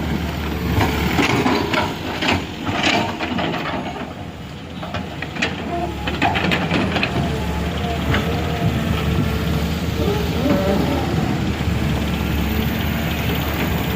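A heavy vehicle's engine running steadily, with sharp knocks in the first few seconds and indistinct voices.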